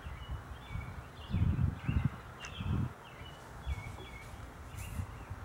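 A bird calling repeatedly, short chirps roughly twice a second. Low, dull bumps of nearby handling come in a cluster from about one to three seconds in.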